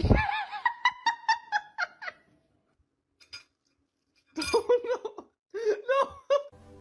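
A sudden thump, followed at once by a burst of high-pitched, rhythmic laughter, and a second bout of laughter about four seconds in.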